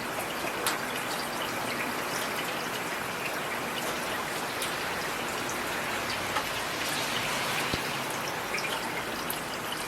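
Heavy rain falling steadily: a dense, even hiss with scattered sharper taps of individual drops.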